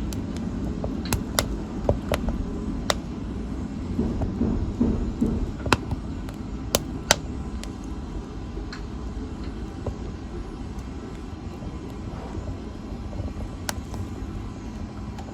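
Wood fire burning in a fireplace: a steady low rumble of flames with sharp crackles and pops from the burning wood, more frequent in the first half, the loudest two about seven seconds in.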